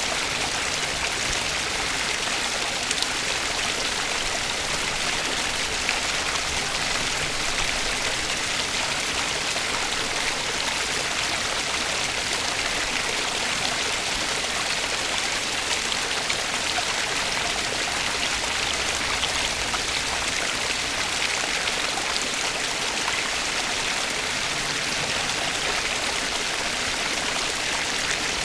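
Natural running water, a stream flowing in a steady, even rush with no breaks.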